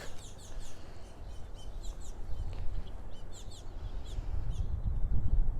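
Birds chirping: many short, quick, falling chirps scattered throughout, over a steady low rumble.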